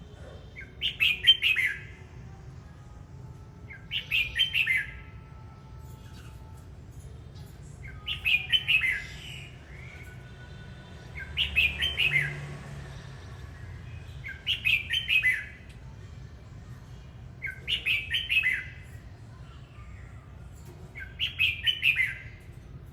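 Red-whiskered bulbul singing: short, loud, warbled song phrases of about a second each, repeated seven times at intervals of three to four seconds.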